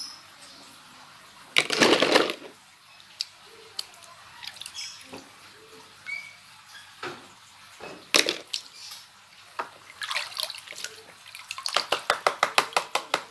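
Water splashing and dripping in a bucket as plastic toy animals are washed by hand: one big splash about two seconds in, scattered smaller splashes and drips, then a quick run of rapid splashing strokes near the end.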